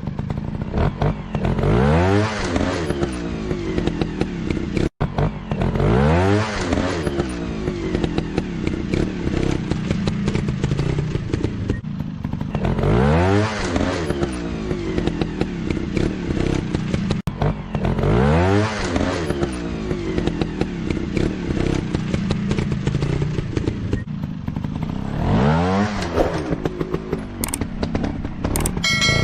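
Motorcycle engine running and being revved again and again, the pitch sweeping up and falling back five or six times.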